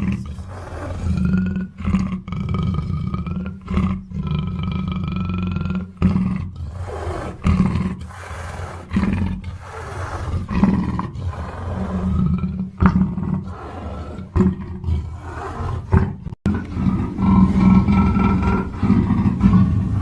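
Black panther (melanistic big cat) calling: a run of repeated rough roars and growls, broken by a sudden cut about sixteen seconds in.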